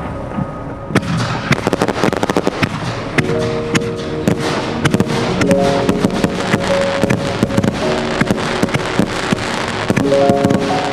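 Fireworks crackling: a dense run of sharp pops and crackles that starts about a second in, over background music with sustained notes.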